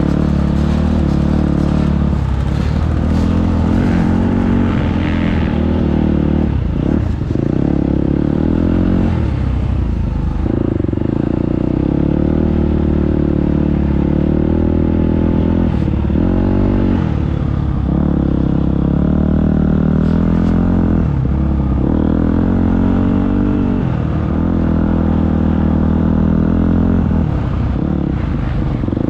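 Motocross bike engine running hard on a dirt track, revving up and then dropping sharply in pitch every few seconds as the throttle is worked and gears change.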